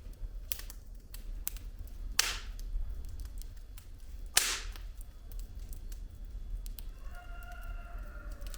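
Firewood burning in a fireplace, crackling with frequent small clicks over a low rumble of the flames. Two loud pops come about two seconds apart in the first half. A faint whistle joins near the end.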